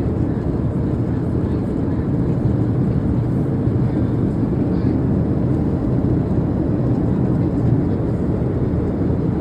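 Steady low rumble of airliner cabin noise in flight, the engines and airflow heard from inside the cabin.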